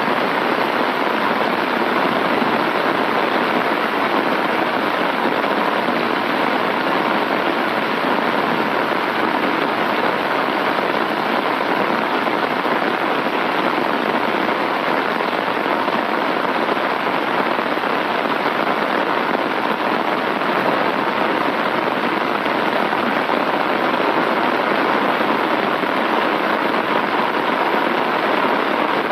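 Heavy rain falling steadily on an umbrella held close over the microphone, a dense, even, unbroken rush of drops.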